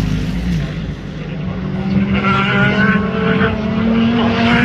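Race car engines at speed. One car's engine falls away in the first second, then another car's engine comes up, its note steady and rising slightly in pitch as it accelerates.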